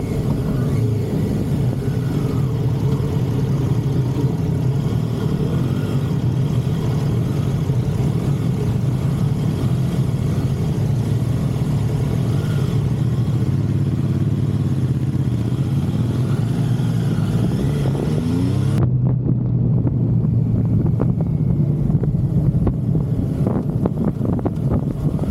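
Motorcycle engine running steadily under rushing wind as the bike is ridden. About 17 seconds in the engine revs rise briefly, and about 19 seconds in the wind hiss drops away abruptly, leaving the engine.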